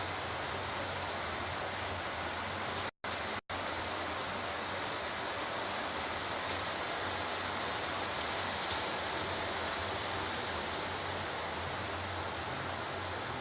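Steady hiss of rain during a thunderstorm, unchanging throughout, with a faint low hum under it. The sound cuts out twice for an instant about three seconds in.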